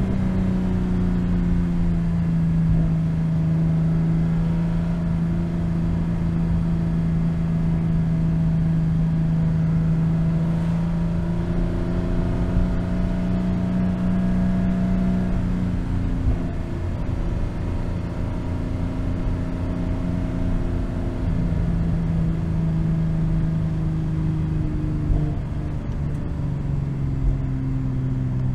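BMW M240i's 3.0-litre turbocharged straight-six (B58) and exhaust running at a fairly steady engine speed while cruising, a constant drone with tyre and road noise beneath it. The pitch dips about two seconds in, shifts around halfway and drops lower near the end as the throttle is eased.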